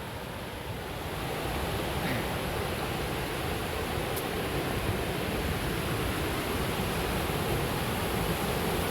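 Steady rush of water from a waterfall, a little louder about a second in.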